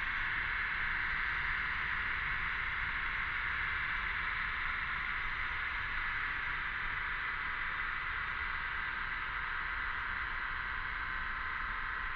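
Chorus of cicadas: a steady, unbroken high buzzing drone.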